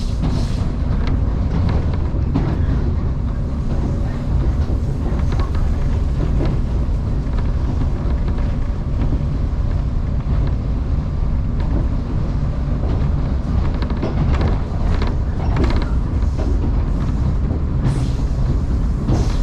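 Electric commuter train running at speed between stations, heard from inside the carriage: a steady low rumble of wheels on rail, with a few sharp clacks over rail joints toward the end.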